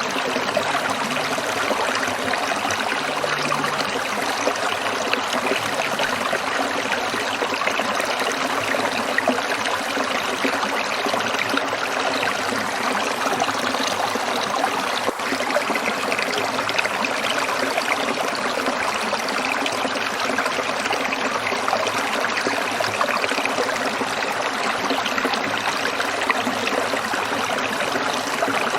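A stream of water trickling and splashing over rocks, a steady, even flow of fine splashing.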